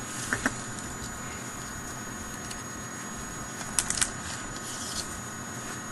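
Yu-Gi-Oh! trading cards handled and flipped through by hand: a couple of soft clicks near the start and a short cluster of sharper card flicks about four seconds in, over a steady electrical hum.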